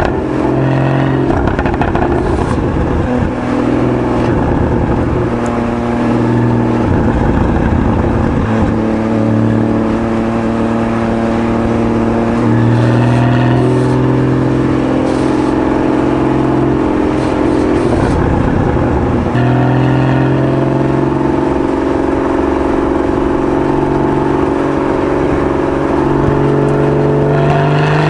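Porsche 981 Boxster GTS's 3.8-litre flat-six on its stock exhaust, running at a mostly steady engine speed. Near the end the pitch starts to rise as it revs up.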